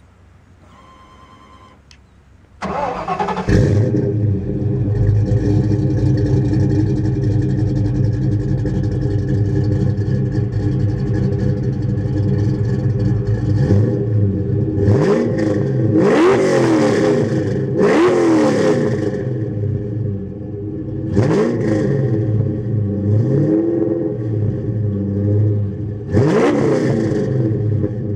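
Ford Mustang 5.0 V8 with Flowmaster exhaust starting up about two and a half seconds in, then idling with a deep, steady note. Over the second half it is revved about six times in quick throttle blips that rise and fall back to idle.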